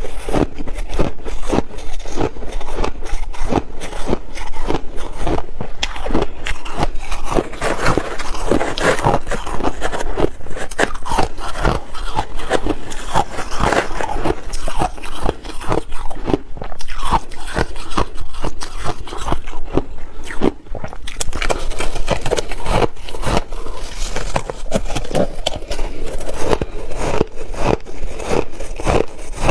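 A person biting and chewing ice: a dense, continuous run of crisp crunches and crackles, several a second, with hardly a pause.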